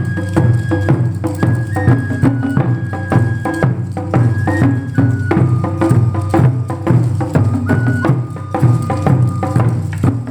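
Taiko ensemble music: quick drum strikes and wooden clacking from naruko clappers over a steady low bass. A high melody moves in held notes that step up and down.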